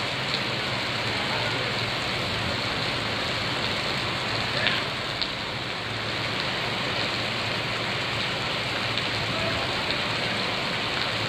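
Steady rain falling on a wet street, an even hiss, with a couple of faint ticks about halfway through.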